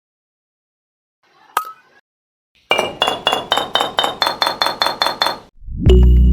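A single sharp click, then a quick, even run of bright, ringing clinks, about five a second, for nearly three seconds. Music with a heavy bass comes in near the end.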